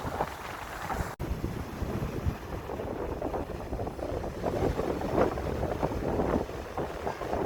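Strong sea wind buffeting the microphone over waves breaking and washing on the shore, the surf swelling louder in the second half. The sound cuts out for an instant about a second in.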